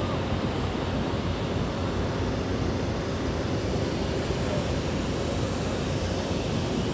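Steady rushing noise of an aircraft in flight, with no rise or fall.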